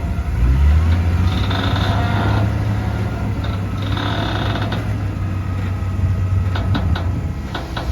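Tata Prima dump truck's diesel engine revs up about half a second in and then runs steadily at raised speed. A few sharp clicks come near the end.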